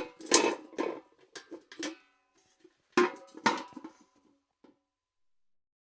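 Metal bucket clanking: a rapid run of knocks and rattles with a metallic ring for about two seconds, then after a short pause a second, shorter run of clanks that dies away.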